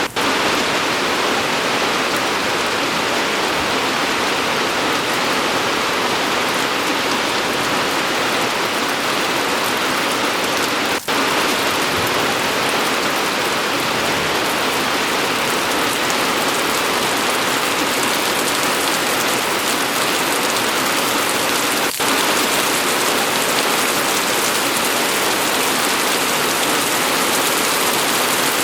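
Steady rain falling, an even dense hiss of many drops on a surface. It drops out for an instant twice, about eleven seconds apart.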